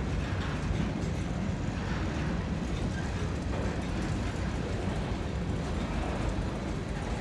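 Covered hopper cars of a freight train rolling past at a grade crossing: a steady rumble of steel wheels on the rails.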